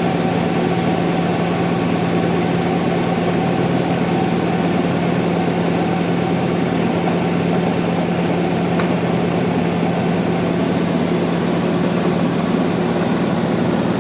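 Sawmill machinery running steadily: a constant loud mechanical hum with a steady whir over it, unchanging throughout.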